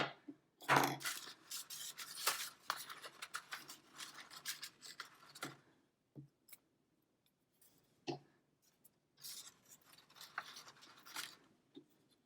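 Paper rustling and rubbing as cut paper tail feathers are handled and pressed on with glue, in two stretches with a short lull between them and a few small clicks.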